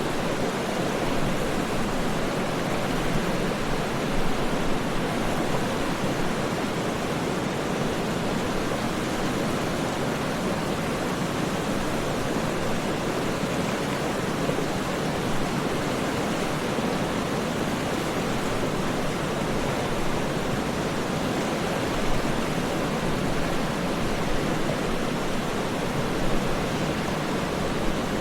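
Waterfall rushing steadily: an even wash of water noise with no separate splashes, pauses or changes.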